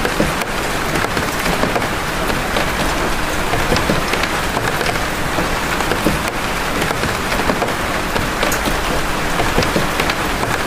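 Steady rain of big drops, a dense even hiss with many separate drop strikes heard within it.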